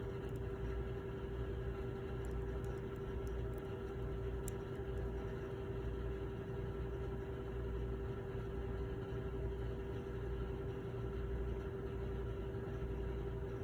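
Steady machine hum with one constant mid-pitched tone over a low rumble, unchanging throughout.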